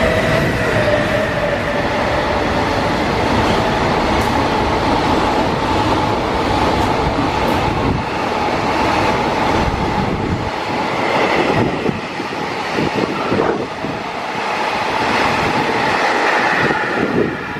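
Freight train passing through a station at speed: a loud, steady rumble of steel wheels on rail. From about ten seconds in the deep rumble drops away and it turns to a rattling clatter of wagons running over the rail joints.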